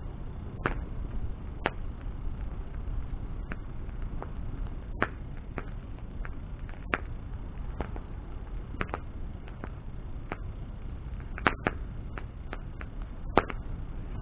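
Wood bonfire burning: irregular sharp crackles and pops from the burning wood over a steady low rush of flame, with two louder pops near the end.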